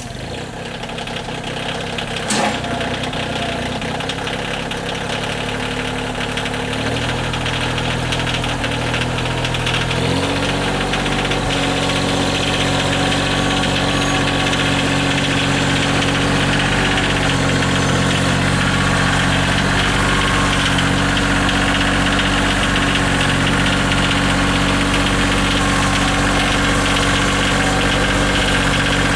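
Engine running just after being started, its speed stepping up about seven seconds in and again about ten seconds in, then holding steady. A single sharp click about two seconds in.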